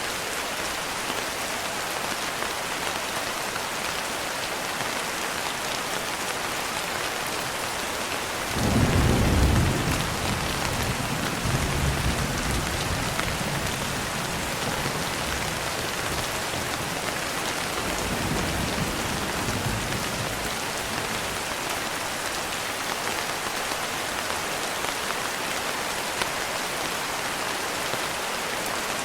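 Steady rain pattering on a window pane. About a third of the way in a loud low roll of thunder breaks in, followed by fainter rumbles a few seconds later and again near the middle.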